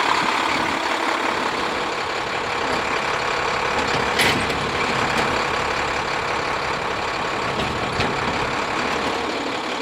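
2007 International 7500 WorkStar hook truck's diesel engine idling steadily, with a short hiss about four seconds in and a sharp click near the end.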